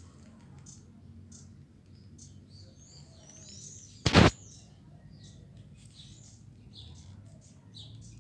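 Small birds chirping, with many short, high calls, some sliding in pitch, scattered throughout. A single loud bump cuts in briefly about four seconds in.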